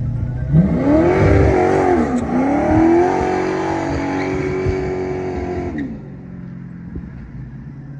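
Car engine revving: the pitch climbs about half a second in, dips and climbs again, then holds steady before dropping away near six seconds.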